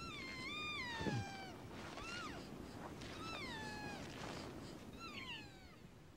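Elk mewing: about four high, squealing calls, each sliding down in pitch at the end, the first the longest. A brief low grunt comes about a second in.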